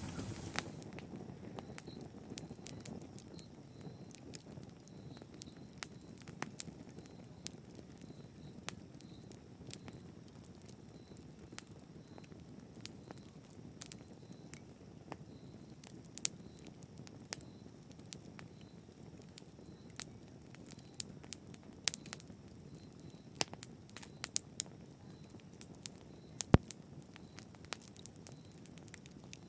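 Wood fire crackling in a fireplace: a low steady hiss of burning with irregular sharp pops and snaps, one louder pop near the end.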